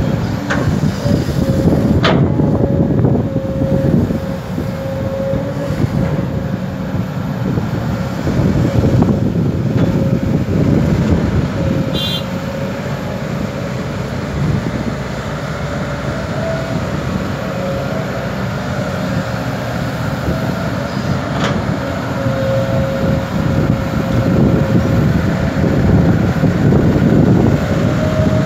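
Kobelco SK200 excavator working, its diesel engine running loud and heavy with a steady high tone over the rumble, swelling and easing as it digs and loads, with a few sharp metallic knocks.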